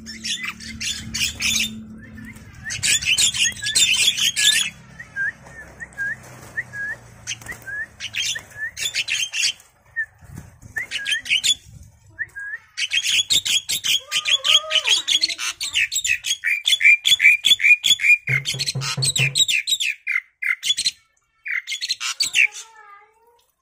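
Pet bird calling in runs of rapid, high chirps, the longest lasting several seconds, with a string of short single notes between runs.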